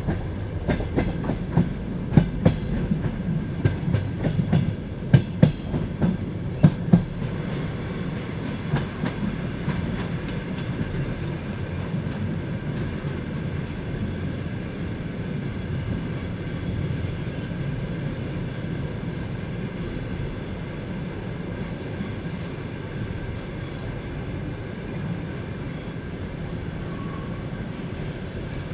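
Passenger train carriage running on the rails, heard from inside: a run of sharp wheel knocks over rail joints in the first seven seconds or so, then a steady rumble.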